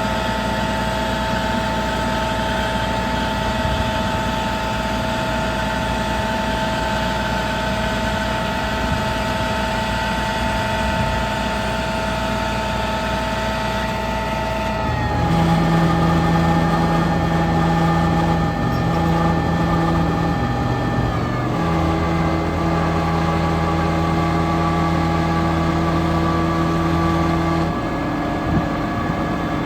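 Mack EM7-300 diesel engine of a 1998 Mack DM690S truck running at a steady idle. About halfway through, its pitch dips slightly and a deeper steady hum joins in, a little louder. The sound shifts again a few seconds later and once more near the end.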